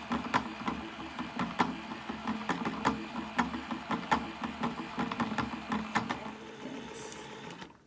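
Battery-powered mini washing machine for makeup sponges running with water and soap, a steady small-motor hum with irregular rattling clicks as the sponge tumbles. It stops just before the end.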